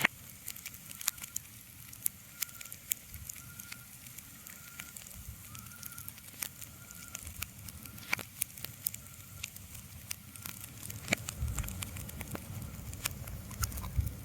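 Irregular crackling and sharp pops over a soft, steady low rumble, with a faint repeated high note in the first half and the low rumble swelling near the end.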